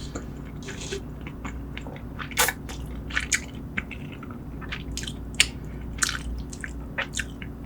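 A person chewing a mouthful of spicy braised seafood close to the microphone, with irregular wet squishing and crisp crunching clicks. A steady low hum runs underneath.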